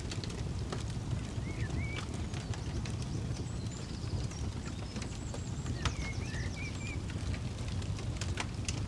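Campfire crackling with frequent sharp pops over a steady low rumble, while a bird chirps in short calls twice in the background.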